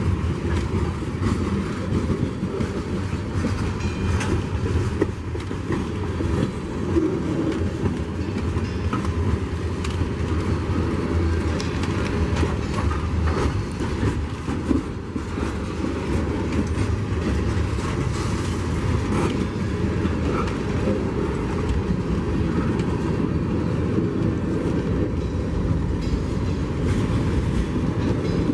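Freight train's cars rolling past on the rails: a steady rumble with a run of small clicks from the wheels.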